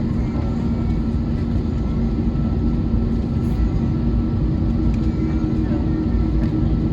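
Steady cabin noise inside an Airbus A321neo with its engines running: an even hum and rush of air with a couple of steady tones, holding at one level throughout.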